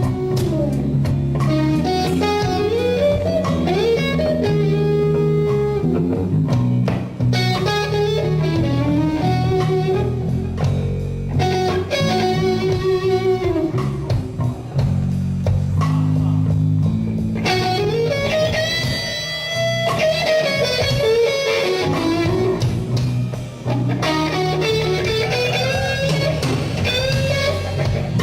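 Live blues band playing an instrumental passage: an electric guitar plays lead lines with notes that bend up and down, over bass accompaniment.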